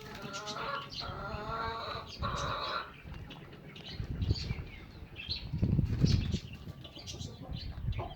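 Aviary birds flapping their wings and calling: a drawn-out, wavering call through the first three seconds or so, then short high chirps over low rustling of wings.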